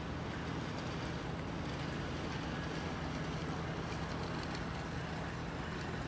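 Freight train hauled by a GE Dash-9 diesel locomotive running past, a steady low rumble.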